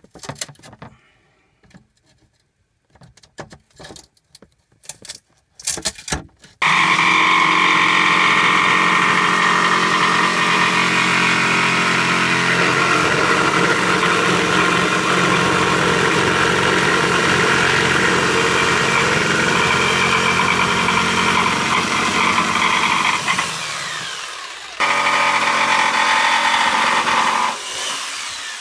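A few handling clicks and knocks, then an electric power saw starts suddenly about six seconds in and runs steadily, cutting through a wooden shelf. Near the end it stops briefly, runs again, and trails off.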